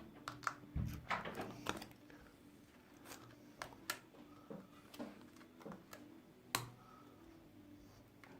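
Faint, irregular clicks and taps of hands and small tools on a smartphone's body and a work surface, with one sharper knock about six and a half seconds in.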